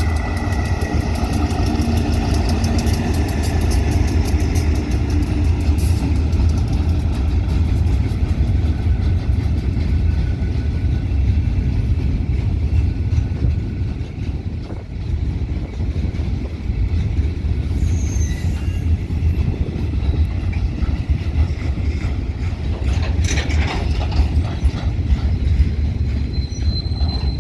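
A State Railway of Thailand diesel-hauled train rolling past with a steady heavy rumble. The locomotive's engine tone fades away over the first few seconds, leaving the wagons running on the rails, with a few sharp clicks near the end.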